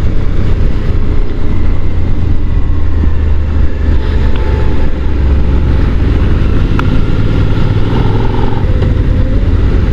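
Honda NC750 DCT motorcycle being ridden, its parallel-twin engine running steadily in a low gear under a loud, continuous low rumble.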